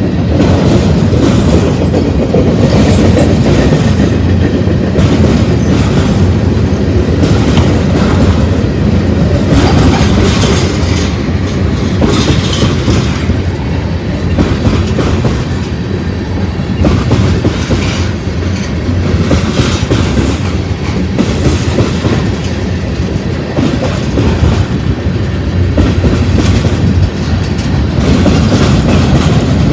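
Manifest freight train cars rolling past loudly, wheels clicking over the rail joints over a steady rumble.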